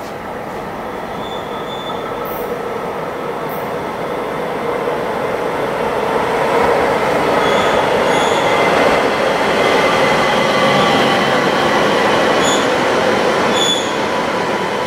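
Electric multiple unit train running in along the station platform, its rumble growing louder as it draws near and passes close. Brief high-pitched wheel squeals come a few times, mostly in the second half.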